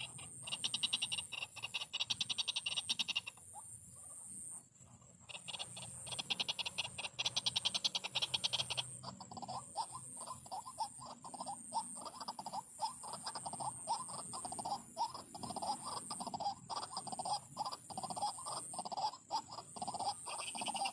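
Female white-breasted waterhen calling: two bursts of a fast, high rattling trill, then a long run of lower, rhythmic croaking calls repeated over and over.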